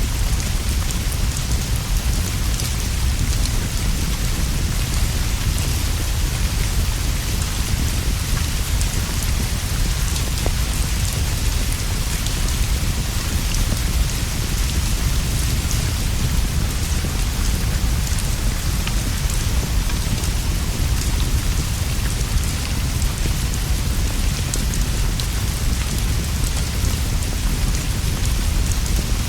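Steady rain falling as a continuous hiss, with a constant deep low rumble beneath it.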